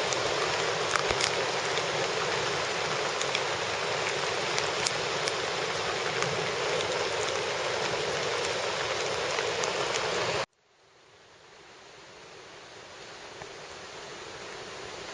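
Heavy rain falling in a steady hiss, with scattered sharp taps of drops. About ten seconds in it cuts off suddenly, and a much quieter hiss slowly swells up.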